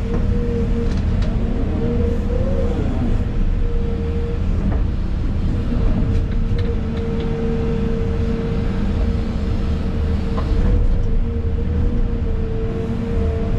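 Excavator's diesel engine and hydraulics running under load, heard from inside the cab: a steady low rumble with a constant whine on top. The whine wavers in pitch about two seconds in, and a few light clicks and knocks sound through it.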